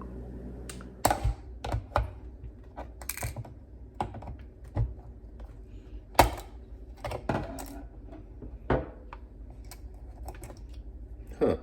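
Irregular sharp clicks and knocks of hard objects being handled, with a louder knock about six seconds in.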